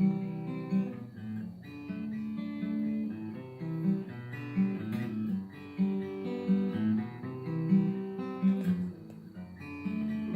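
A guitar strumming chords with no singing, the chords changing every second or so.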